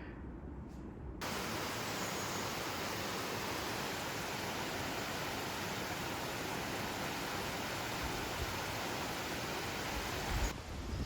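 Steady, even rushing noise with no pitch or rhythm, cutting in abruptly about a second in and cutting off abruptly near the end.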